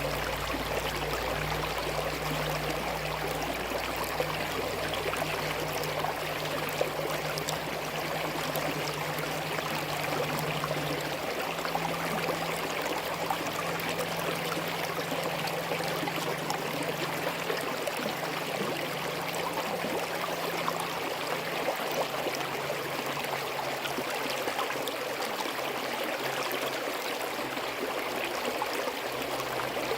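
Small forest stream running steadily, water trickling and gurgling over rocks in an even, continuous rush.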